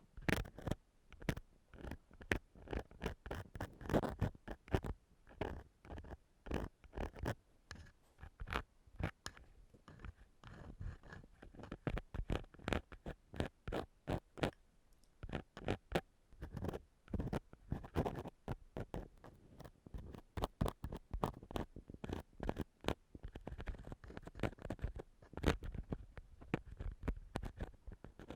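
Ear-cleaning tool scratching and scraping right against a microphone, as in ASMR ear cleaning, in quick irregular strokes with many sharp clicks.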